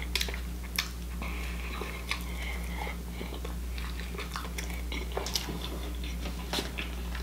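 A man chewing a mouthful of sesame-seed burger close to the microphone, with scattered wet mouth clicks and smacks. A steady low hum runs underneath.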